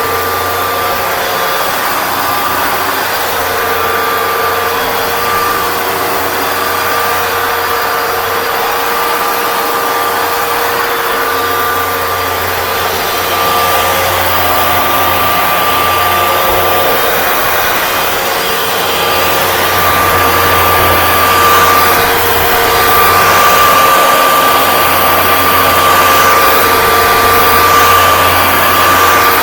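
Hoover Dual Power Max Pro (FH51010) carpet cleaner running: a steady motor whine over suction noise, getting a little louder in the second half.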